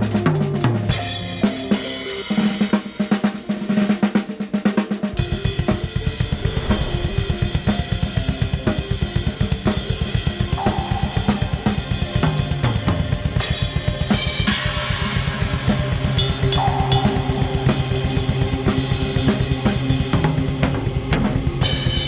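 Acoustic drum kit played in a busy, driving pattern of bass drum, snare and cymbals, with the strokes turning into a fast, even pulse about five seconds in. Sustained low tones from a layered soundscape run underneath.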